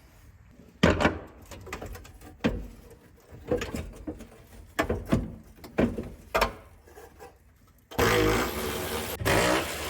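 Scattered knocks and clunks of dash parts and fittings being handled and worked loose in an old truck cab. About eight seconds in, a louder steady noise starts suddenly.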